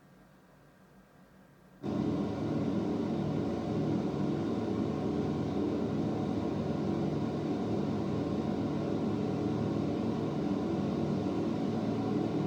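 Film soundtrack of aircraft engines droning steadily, cutting in abruptly about two seconds in, played back over in-ceiling home-theatre speakers.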